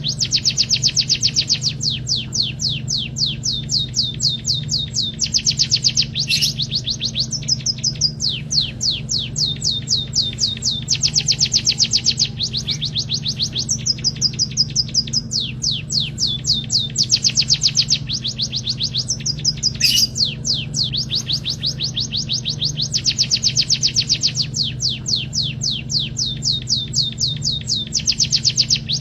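Emprit kaji bird singing in fast trills of high, down-slurred chirps, several notes a second, in phrases of a few seconds following one another with short breaks, over a steady low hum.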